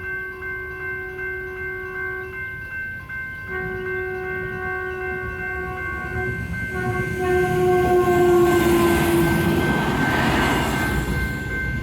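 Electronic railroad crossing bells ringing in a quick repeating pattern while a train sounds its horn in long blasts for the crossing, the last blast dropping in pitch as the train reaches it. The rumble and rush of the train passing through the crossing then builds and is the loudest part.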